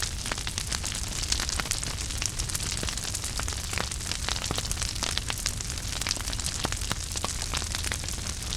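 Wood fire burning in a fireplace: many irregular sharp crackles and pops over a steady low rumble.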